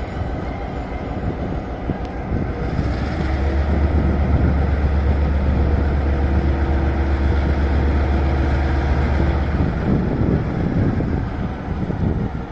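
Diesel locomotive R173's engine roaring during shunting. About two to three seconds in it throttles up to a loud, deep, steady drone, then eases back near the end.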